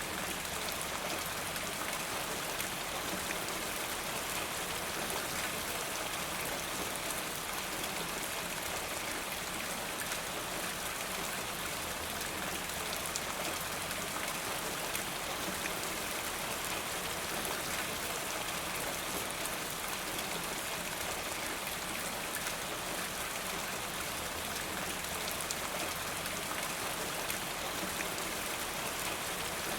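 Steady rain, with drops falling from a rain gutter: an even hiss dotted with many distinct drop hits.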